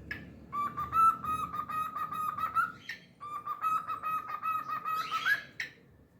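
Pet cockatiel singing: two quick runs of rapid repeated whistled notes at one pitch, each ending in a short upward note, with a brief pause between them about three seconds in.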